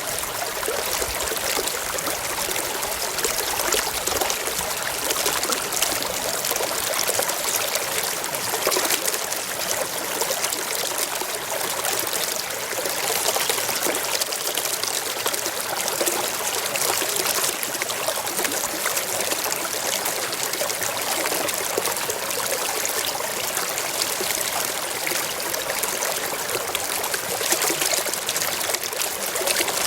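Forest stream flowing steadily over rocks, a continuous trickling and splashing of running water.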